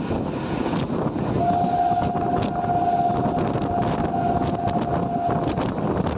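Indian Railways train horn sounding one long steady blast of about four seconds, starting about a second and a half in, over the running noise of a train passing.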